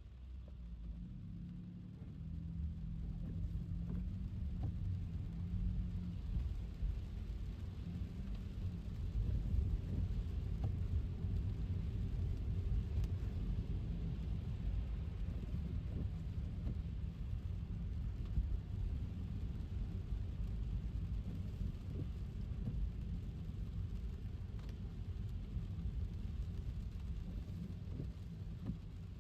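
Car driving on a wet road in the rain: a steady low rumble of tyres on wet pavement mixed with rain noise, growing louder about two seconds in.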